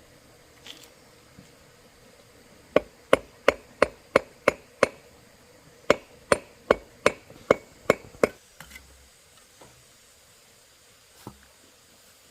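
Two runs of sharp striking blows, about seven in each at roughly three a second, with a short pause between, like a tool striking something solid.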